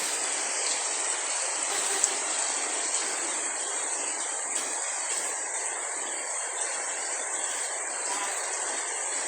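Steady rainfall, an even hiss with a few faint sharper ticks; the strongest tick comes about two seconds in.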